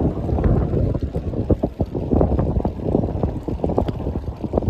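Wind buffeting the microphone during a ride: a loud, low rumbling rush broken by irregular knocks and rattles.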